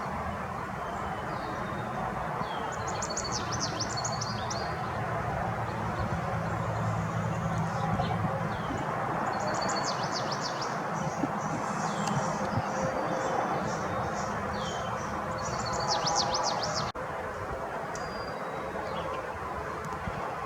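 Songbirds singing short, rapid trilled phrases three times, about every six seconds, with scattered chirps between, over a steady background noise.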